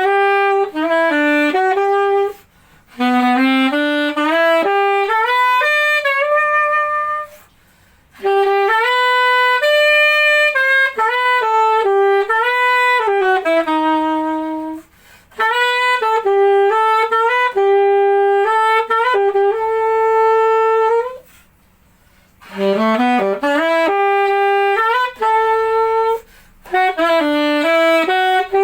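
Chateau professional VCH-A920 MZ saxophone played solo and unaccompanied, in about five melodic phrases with short pauses between them, each phrase ending on a long held note. Recorded plain, without a condenser microphone or effects.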